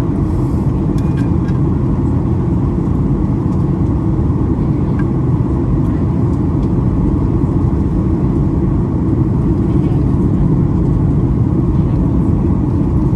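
Steady cabin noise inside a Boeing 737-800 airliner in descent: an even, unbroken rush of airflow and engine drone, heaviest in the low end.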